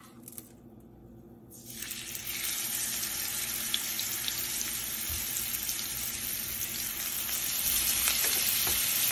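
Salmon fillets sizzling as they are seared in hot oil in a frying pan. The sizzle starts about two seconds in as the first fillet goes down and grows louder near the end when a second fillet is added.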